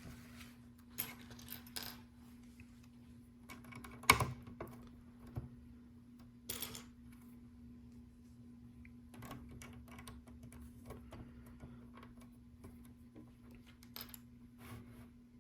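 Small plastic LEGO pieces clicking and rattling as they are picked out and pressed into place, in scattered clicks with one sharp knock about four seconds in.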